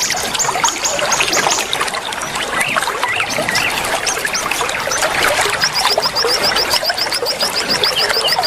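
Many small songbirds chirping and twittering at once over a bed of trickling water. A little past halfway, one bird starts a fast, even trill of high notes, about ten a second.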